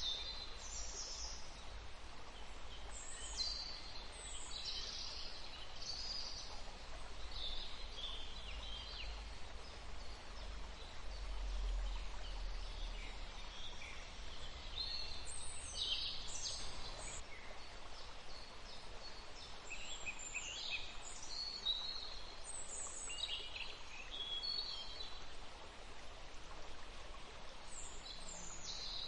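Several songbirds singing and chirping in short, high phrases, one after another and sometimes overlapping, over a steady low rumble.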